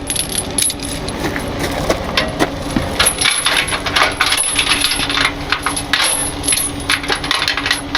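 Metal tow-rigging hardware clinking and rattling in many irregular sharp clicks as synthetic straps are hooked under a truck's front end, over a steady hum.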